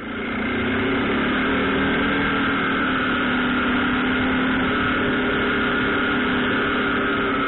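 An engine running steadily at an even speed, with a constant hum and a noisy rush and no revving.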